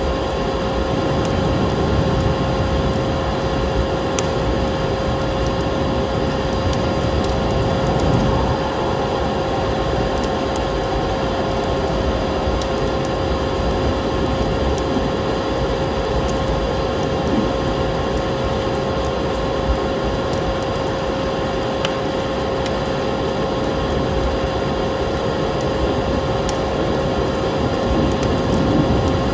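Vacuum cleaner running steadily, its motor giving a constant whine over a broad rushing hiss, with sparse crackles of a wood fire.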